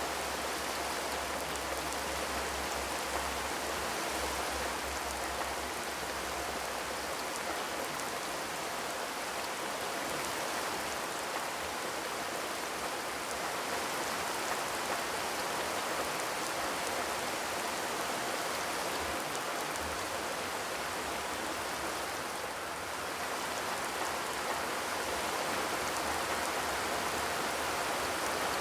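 Steady rain drumming on a corrugated zinc roof, an even patter of many drops.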